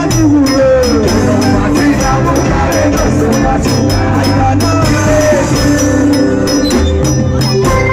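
Live band music with a steady beat: sustained bass, a high percussion pattern ticking evenly throughout, and gliding melodic lines over it.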